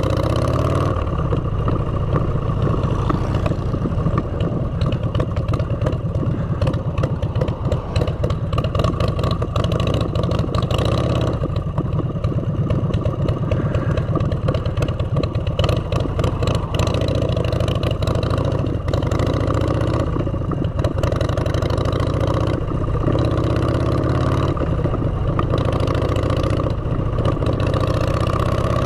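Motorcycle engine through aftermarket exhaust pipes, running steadily under way, its pitch rising and falling with the throttle near the start and again toward the end. Frequent short clattering and buffeting sounds run through it.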